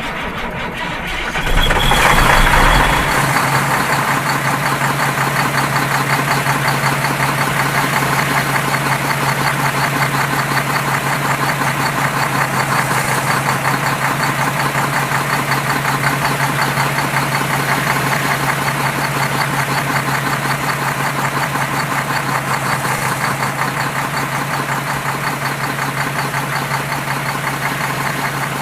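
An engine starting about a second and a half in, then running steadily at idle.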